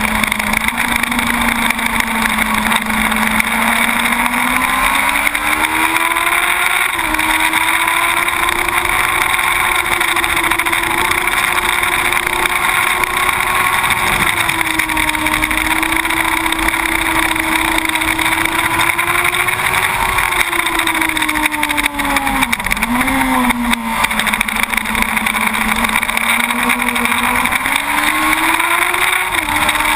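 2006 Yamaha YZF-R1 SP inline-four engine running hard on track, heard from onboard over a steady rush of noise. The engine note climbs about a quarter of the way in, holds high with small dips, drops sharply for a moment about two-thirds of the way through, then climbs again near the end.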